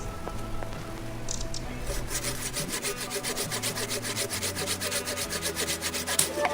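Rapid back-and-forth rasping of a hand tool on wood, at about five strokes a second. The strokes grow stronger and more regular about two seconds in and stop shortly before the end.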